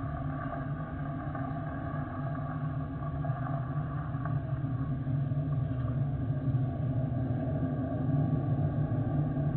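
Jet airliner engines, a steady rumble with a whine near its top, slowly growing louder as the aircraft comes closer.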